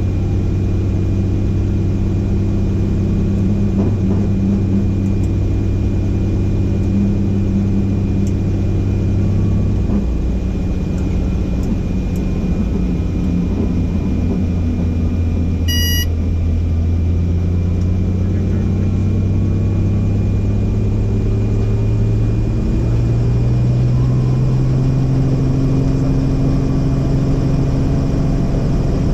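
Helicopter engine and rotor noise, a steady loud drone whose pitch shifts slightly up and down, with a faint high whine. A brief electronic beep sounds about halfway through.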